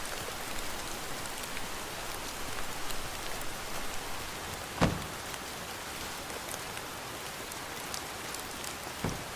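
Steady rain falling, an even hiss of drops. A single thump about halfway through and a fainter one near the end.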